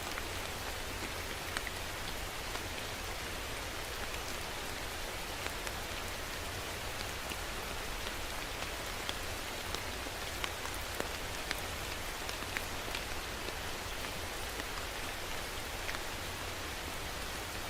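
Steady rain falling, a constant hiss with scattered individual drops ticking sharply close by.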